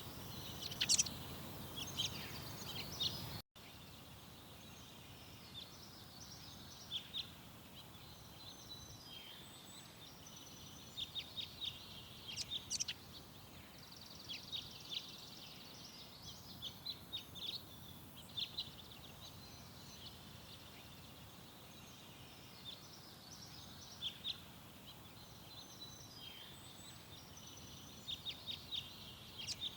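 Small garden birds chirping, with many short, high calls in scattered clusters over a steady outdoor hiss. The background drops abruptly about three and a half seconds in, at an edit, while the chirping carries on.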